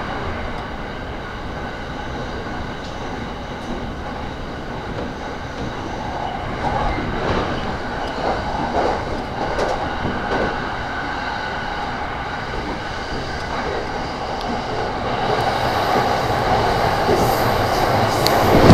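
JR East E231-series commuter train heard from inside a car while running between stations: a steady rumble of wheels on the rails with some clicking over rail joints, a faint high squeal coming in near the end as the noise grows louder.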